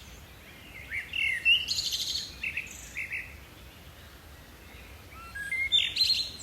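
Songbird singing in two phrases of quick, high chirps. The second phrase is a run of notes stepping upward in pitch. A faint, steady low background noise runs underneath.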